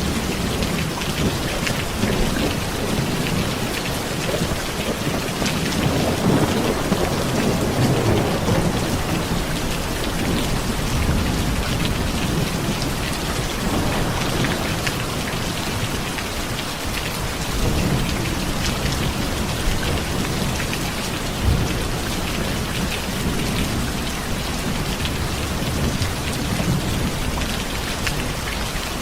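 Steady rain falling, with low rumbles of thunder rolling underneath it at times.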